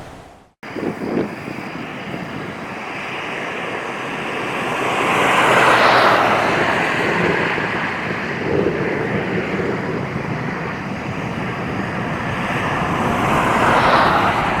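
Strong wind rushing in gusts, swelling loudest about six seconds in and again near the end.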